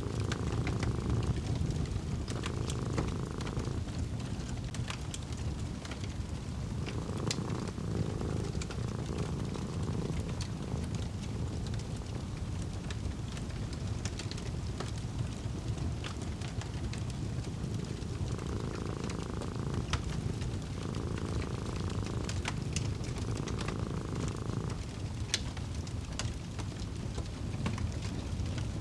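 A cat purring in slow, even cycles over a crackling fire: a steady low rumble with scattered sharp pops. The purring stops for several seconds in the middle of the stretch and then resumes.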